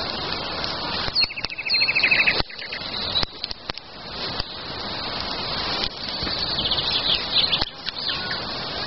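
Wild songbirds singing, with a fast, evenly repeated trill about a second in, over a rushing noise that cuts in and out several times.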